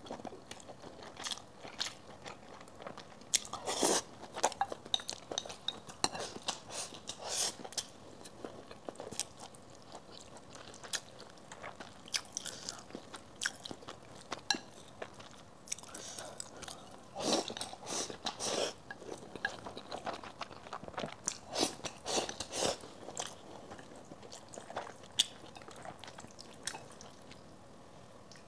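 Close-miked eating sounds: a person chewing and biting through mouthfuls of rice and braised food, with irregular sharp crunches and clicks coming in clusters.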